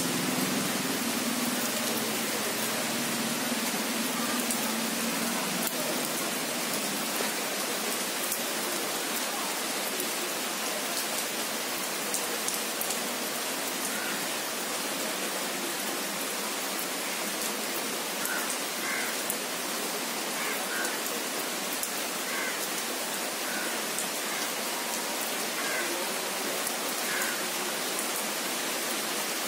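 Steady rain falling on tree foliage, an even hiss. A low hum fades out over the first few seconds, and faint short chirps come and go in the second half.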